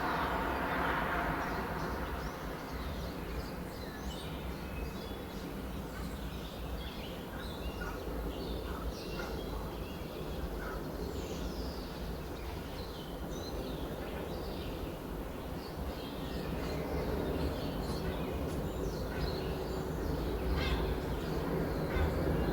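Many small birds chirping and calling in short, scattered notes over a steady low background rumble. A louder sound fades out in the first second.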